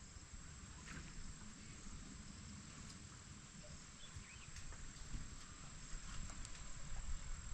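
Faint outdoor ambience: a steady high-pitched insect drone over a low rumble, with a few faint clicks.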